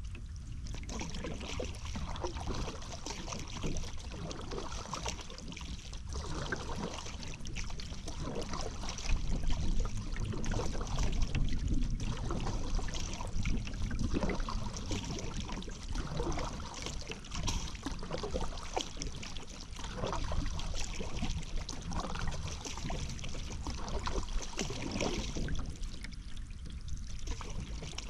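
Paddle strokes in river water: the blade dipping, pulling and dripping in a steady rhythm every couple of seconds, over a low rumble.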